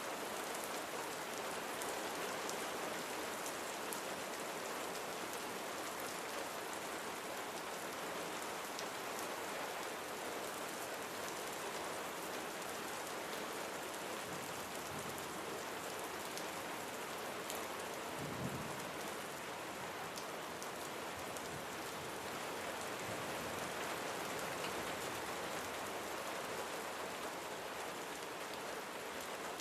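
Steady rain falling on surfaces, an even hiss with scattered drop ticks. A brief low rumble comes about two-thirds of the way through.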